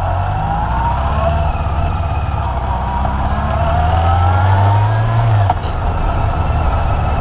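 Honda CB400 Super Four's inline-four engine accelerating away from a standstill. Its pitch climbs, drops back at each gear change, then falls away sharply as the throttle closes about five and a half seconds in.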